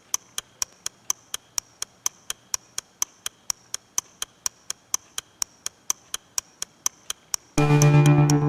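Steady, even ticking, about four ticks a second, over a faint hum. Loud electronic music comes in near the end.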